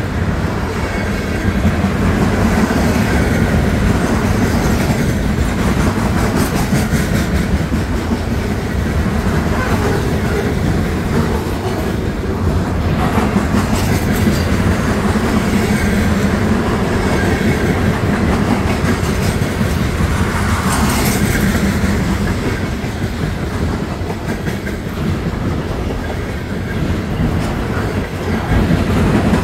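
Long freight train of trash-container cars rolling past at close range, with a steady rumble of wheels and a clickety-clack over the rail joints.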